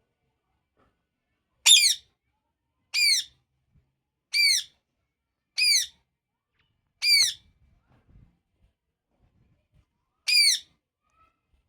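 Parrot squawking: six short calls, each dropping in pitch at its end. The first five come at an even pace, about one every second and a third, then a pause and a final call near the end.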